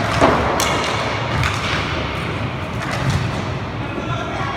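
Inline roller hockey play: a handful of sharp knocks of sticks and puck over a steady background of skate wheels and rink noise.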